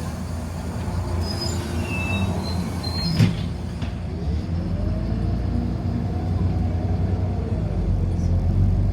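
Inside a moving city bus: a steady low rumble from the drive and the road. A sharp knock comes about three seconds in, and a faint whine rises and falls in the second half.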